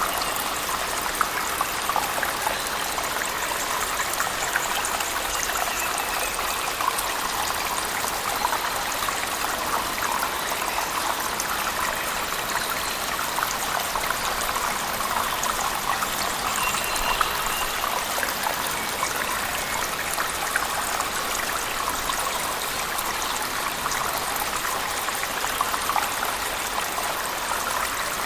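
Steady rush and splash of water falling in a cave, mixed with heavy rain, with small scattered drips and splashes.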